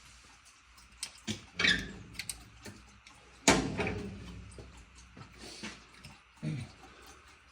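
Scattered clicks and knocks of objects being handled, with one louder sharp knock about three and a half seconds in that rings briefly as it dies away.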